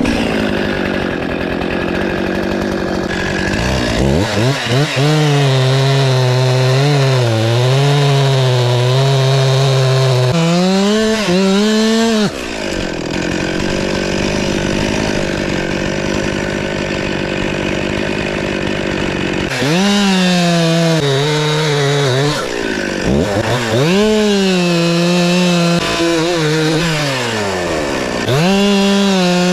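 Two-stroke chainsaw running: it idles, then revs up and wavers under load in cuts through wood, about four seconds in, again near the middle, and twice more toward the end, dropping back to a steady idle between cuts.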